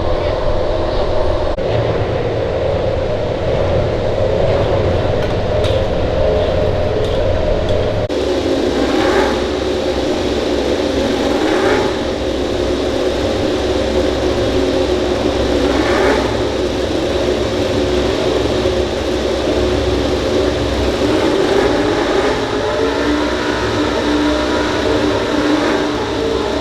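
MotoGP racing motorcycle engines running loudly, with a sudden change in the sound about eight seconds in and a few short swells where the revs rise.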